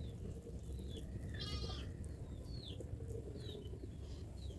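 Small birds chirping in short, scattered notes, with one brief buzzy call about a second and a half in, over steady low background noise.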